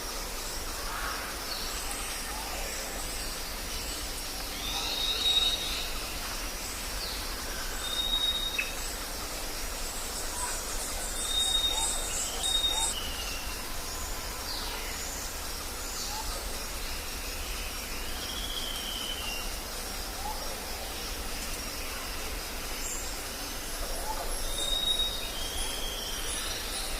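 Tropical jungle ambience: a steady drone of insects with birds calling over it, short clear whistles repeated every few seconds and a rapid high trill about ten seconds in.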